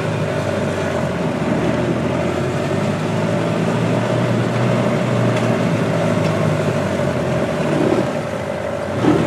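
A vehicle engine running steadily on the move, with a steady whine over the engine note.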